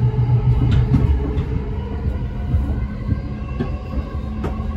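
Electric commuter train running, heard from inside the passenger car: a steady low rumble with a few faint clicks from the wheels on the rails. A steady hum joins in about halfway through.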